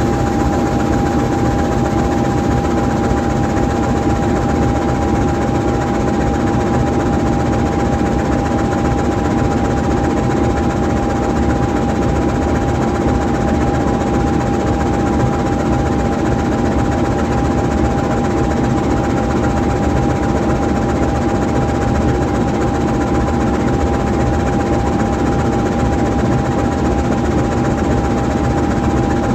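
GE U20C diesel-electric locomotive's V12 diesel engine idling steadily while the locomotive stands still, with a steady whine above the engine sound.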